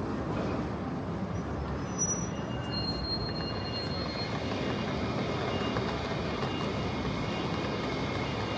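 A tram running along the street on its rails, a steady rumble with thin high wheel squeal setting in about three seconds in.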